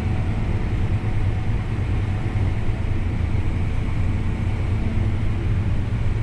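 Farm tractor engine running steadily while driving, heard from inside its cab: a constant low hum with road and machinery noise over it.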